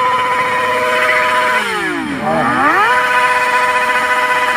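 Motorcycle engine revved high and held at a steady high pitch, then throttled off about a second and a half in so the pitch drops sharply, and revved straight back up to hold high again.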